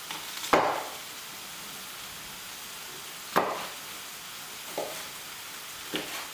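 Chopped onion sizzling steadily in a frying pan of butter and oil, with four sharp kitchen knocks; the loudest comes about half a second in.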